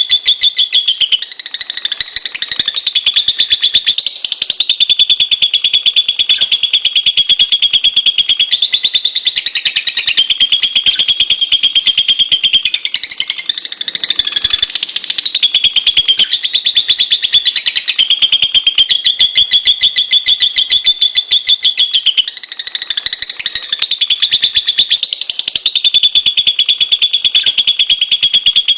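Lovebird giving a long, shrill, very fast chattering trill, kept up almost without pause and broken only briefly about a second and a half in, near the middle and about three quarters through.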